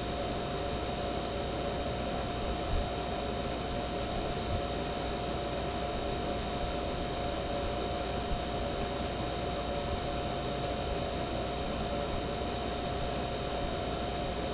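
Through-the-wall air conditioner running steadily on medium fan speed: an even hum and airflow noise with a constant whine. The fan motor is holding speed and no longer bogging down, which the owner puts down to the unit having sat unused for a while.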